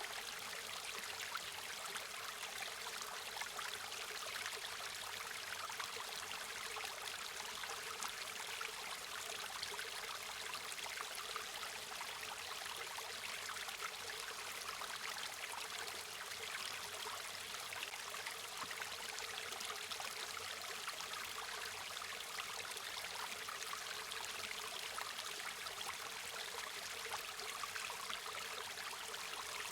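River water flowing steadily, a continuous rushing sound that sits mostly high, with little low rumble.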